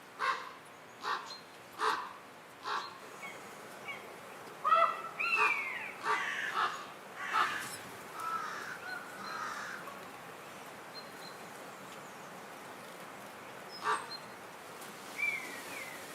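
Crows cawing: four short, evenly spaced caws, then a louder cluster of calls with bending pitch about five to seven seconds in, and two more single calls near the end.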